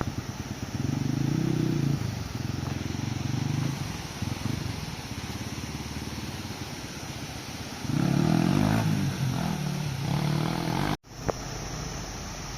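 Dirt bike engine running, revved up under throttle in two louder bursts, about a second in and again near the end, with lower running between. A brief cut-out comes just before the end.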